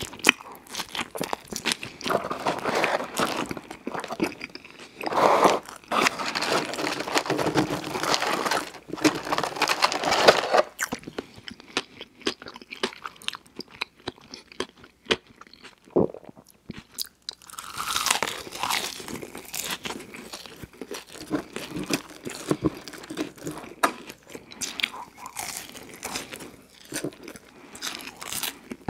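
Close-miked mouth sounds of a person chewing a bite of a breaded fast-food sandwich with crunching and wet mastication. The chewing eases off for a few seconds about halfway through, then resumes as French fries are eaten.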